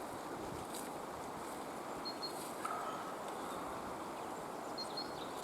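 Outdoor forest ambience: a steady background hiss with a few faint, short bird chirps, one about two seconds in and another near the end.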